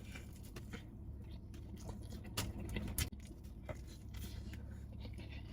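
A person biting into and chewing a cheesesteak sandwich: quiet mouth sounds with a few short clicks, loudest about halfway through, over a steady low hum.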